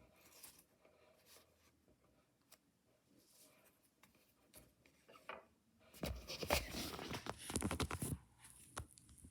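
Quiet rustling of mystery-toy packaging being handled. About six seconds in comes a loud crinkling and tearing burst lasting about two seconds, as the packaging is torn open.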